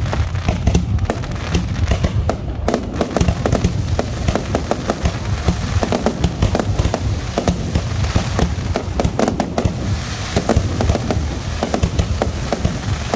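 Aerial fireworks display: a dense, unbroken run of bangs and crackles from shells bursting overhead, many each second.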